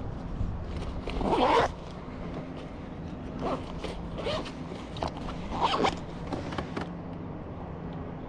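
A zipper being pulled in several short rasping strokes, the longest and loudest about a second in, over a faint steady hum.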